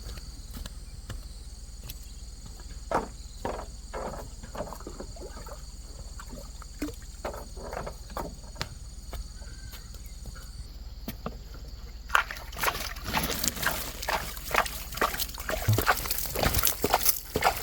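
Water sloshing and splashing with scattered knocks, turning much busier and louder about twelve seconds in.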